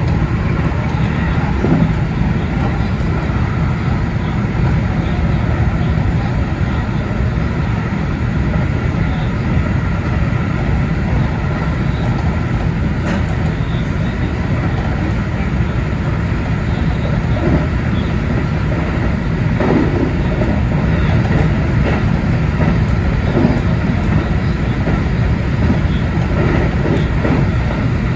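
JR Central 313 series electric train running at high speed on welded rail: a steady rumble of wheels and running gear with a few faint clicks.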